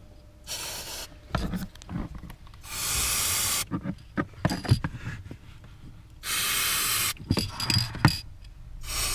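Aerosol can of aluminium grease spraying in hissing bursts of about a second each, three loud ones and a fainter one near the start, onto the clutch pedal linkage to cure its squeak. Scattered knocks and clicks come between the bursts.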